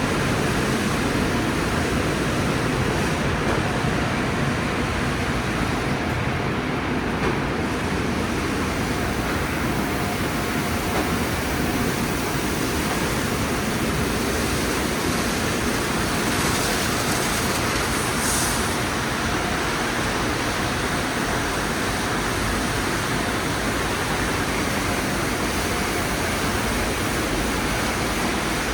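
Conveyor tunnel car wash running: a steady hiss of spraying water and machinery, with a brief sharper hiss about eighteen seconds in.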